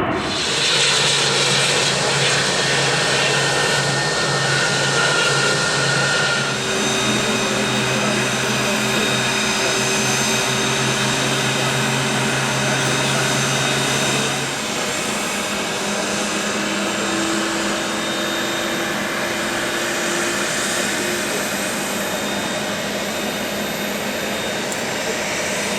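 Business jet engines running with a steady whine over a roar. The whine tones change abruptly about six seconds in and again about halfway through.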